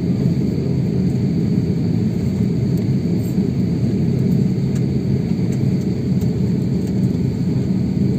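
Steady low rumble of an airliner cabin, the jet's engines and air system running as it taxis after landing.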